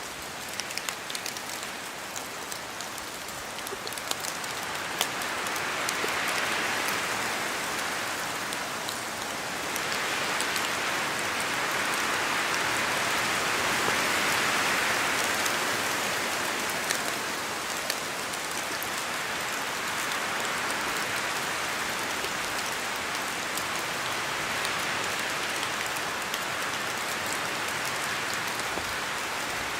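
Steady rain falling through spruce trees, with many single drops pattering down, and wind sweeping through the branches in slow gusts that swell about a third of the way in and again near the middle.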